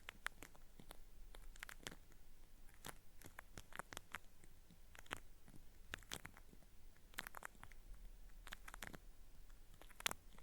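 Cotton swab rubbed on a binaural microphone's ear for ASMR ear cleaning, giving a faint, crackly, peeling sound. It comes as irregular clusters of crisp clicks about every second, with short quiet gaps between them.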